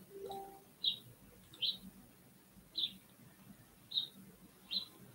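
A bird chirping repeatedly: short, high chirps about once a second. A brief, faint two-note tone sounds near the start.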